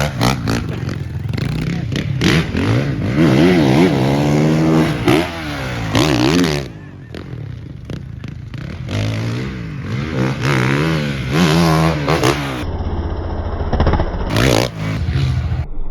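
Off-road motorcycle engine revving up and down as it is ridden round the track, its pitch repeatedly rising and falling with throttle and gear changes. It is quieter for a couple of seconds in the middle.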